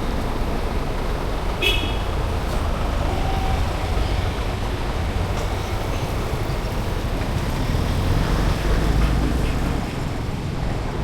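Street traffic rumbling past steadily, with vehicles going by and one short horn beep about two seconds in.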